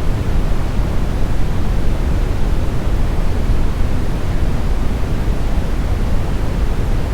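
Steady smoothed brown noise: an even, deep rushing hiss, strongest in the bass and falling off toward the treble, without any change or events.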